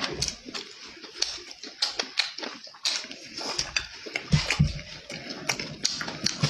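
Close-miked wet chewing and lip-smacking of a person eating, a quick irregular run of small clicks, with a brief low sound a little past four seconds in.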